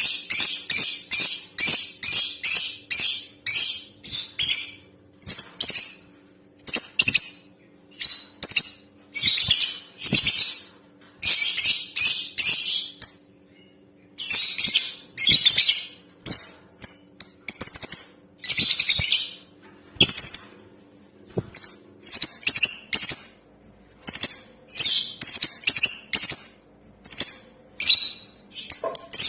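Female lovebird calling: rapid trains of short, shrill chirps and longer chattering bursts, broken by brief pauses, over a faint steady hum.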